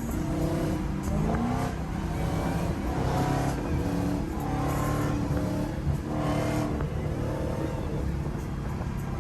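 Car engines running and revving, with engine notes that shift in pitch throughout.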